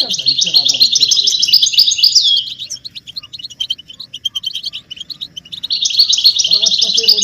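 Several European goldfinches twittering and calling in dense, rapid chirping runs, thinning to scattered chirps for a few seconds in the middle before the dense twittering resumes.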